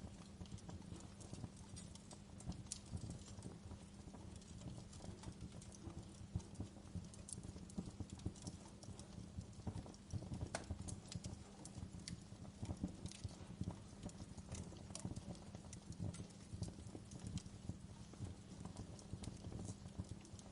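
Wood log fire in a fireplace crackling, with irregular sharp pops and snaps over a low steady hum.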